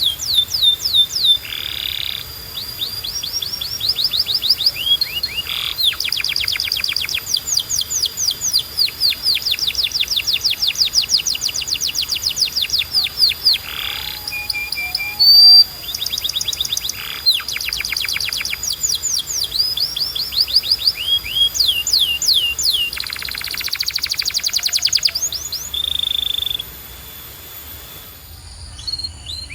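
Domestic canary singing a long, continuous song of rolling trills: runs of quick, repeated downward-sweeping notes at changing speeds, broken by a few short held whistles. The song pauses briefly near the end.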